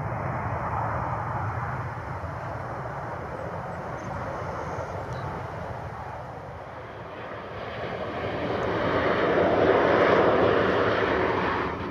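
An airplane's engines making a steady noise that grows louder from about eight seconds in, peaks around ten seconds, and eases slightly near the end as the aircraft passes.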